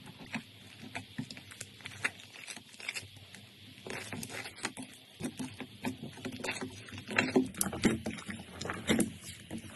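Slime being squeezed and pressed by hand, giving an irregular run of sticky pops and squelches that grows louder in the second half.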